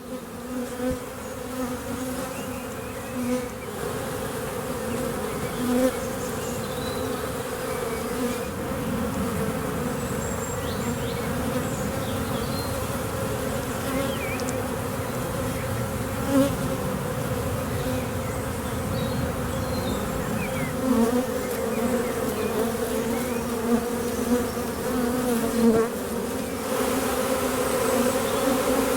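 A swarm of honey bees buzzing: a steady, dense hum with brief louder buzzes now and then. It grows a little louder near the end.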